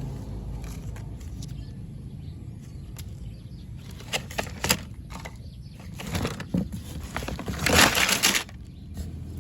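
Handling noises as the broken phone is worked on: a few sharp clicks, then rustling or scraping bursts, the loudest near the end, over a steady low hum.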